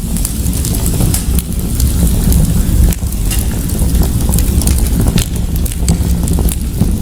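Fire crackling in a fireplace: frequent sharp pops and crackles over a steady low rumble.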